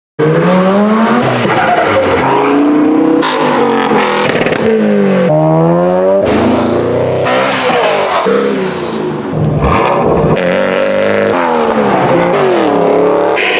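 A rapid string of different cars revving and accelerating hard, the engine note changing with a cut about every second, each rising and falling in pitch. A brief high squeal falls in pitch about eight seconds in.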